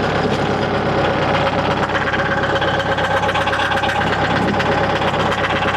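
Mahindra 1533 tractor's three-cylinder diesel engine running steadily while its front loader lifts a load of sawmill slabs.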